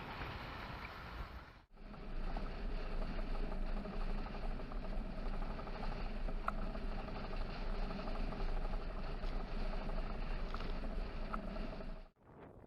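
Steady wind and water noise aboard a sailboat under way, with a low steady hum underneath. The sound cuts out abruptly about two seconds in and again near the end.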